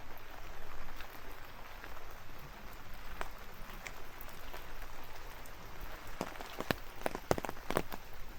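Steady rainfall hissing, with single heavy drops tapping close by now and then and a quick flurry of them near the end.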